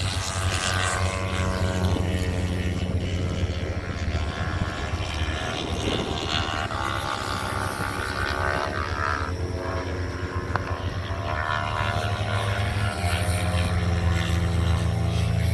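Racing motorcycle engines at speed on a road course, several engine notes rising and falling as the bikes go past over a steady low drone.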